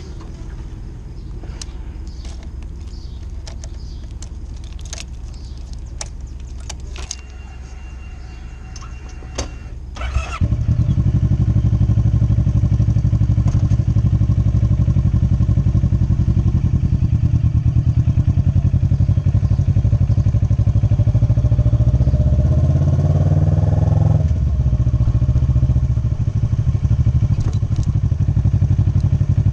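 Motorcycle engine, quieter at first with scattered light clicks, then suddenly much louder about a third of the way in and running steadily. Later the pitch rises for a few seconds as it revs up, then drops sharply at a gear change.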